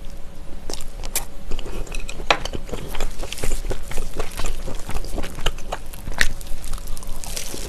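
Close-miked biting and chewing of a slab of smoked pork belly, a steady run of irregular sharp clicks and wet mouth smacks.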